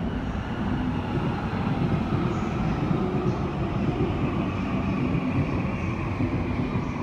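E2 series Shinkansen train running past on an elevated track, a steady rumble of wheels and running gear.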